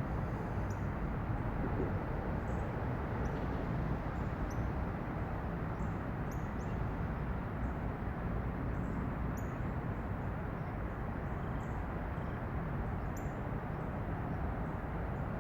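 Steady low rumble of distant road traffic, with small birds giving short, high chirps scattered through it.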